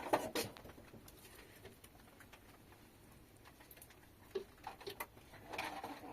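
Light pattering of rain with scattered clicks and taps, loudest in the first half second, and a brief low voice-like sound near the end.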